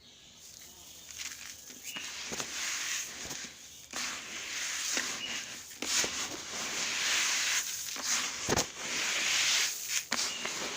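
Dry bird seed mix of millet, paddy rice and sunflower and safflower seeds being stirred and poured by hand, a rustling, pattering hiss with scattered clicks of grains. It grows louder about a second in and again about four seconds in.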